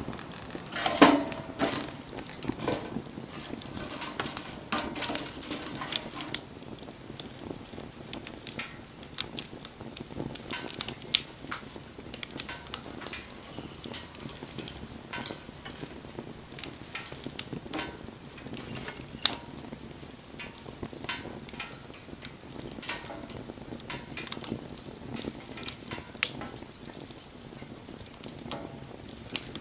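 Wood bonfire burning, crackling and popping with irregular sharp snaps over a steady hiss. A louder crackle comes about a second in.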